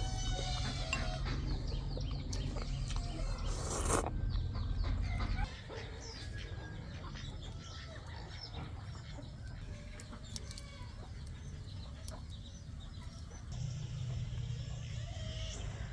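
Scattered short animal calls and chirps over outdoor background sound. A steady low rumble and a loud rustle-like noise come in the first few seconds. The rumble drops away about five seconds in and returns faintly near the end.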